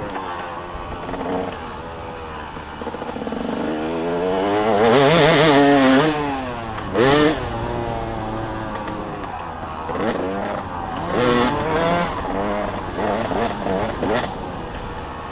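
Motocross bikes racing past, their engines revving up and down with overlapping pitches from several machines. The loudest pass comes about five seconds in, with a short sharp rev burst just after and more revving later on.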